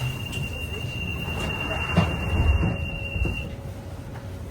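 Inside a London Underground 1992 Stock train: a steady high-pitched tone that cuts off about three and a half seconds in, over a low carriage rumble, with a sharp knock about two seconds in.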